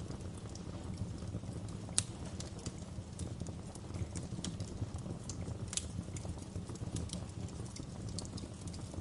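Wood fire crackling in a fireplace: a steady low rumble of burning with irregular small pops and snaps, and two louder snaps about two seconds in and near six seconds.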